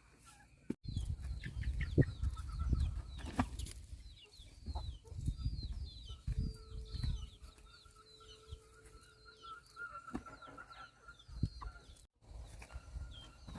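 Chickens clucking, with many short high cheeping calls. There is low rumbling and knocking underneath, loudest in the first few seconds.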